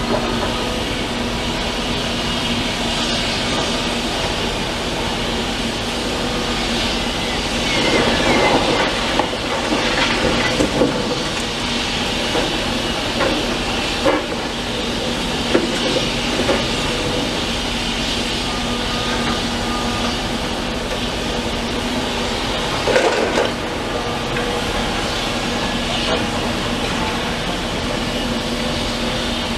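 Demolition excavator working: its engine runs steadily with a constant hum, under irregular clatters and crashes of debris as the building is pulled down. The clatter is loudest about eight to eleven seconds in and again around twenty-three seconds.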